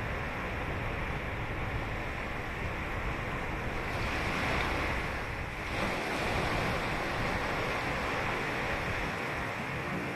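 Ocean surf: waves breaking and washing ashore in a steady rush, growing louder for a couple of seconds about halfway through.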